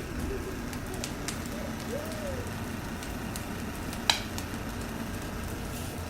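Bonfire burning and crackling over a steady low noise, with a few sharp pops, the loudest about four seconds in.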